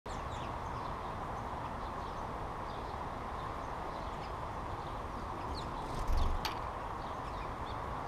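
Small songbirds chirping in short high notes over steady background noise, with a low thump and a sharp click about six seconds in.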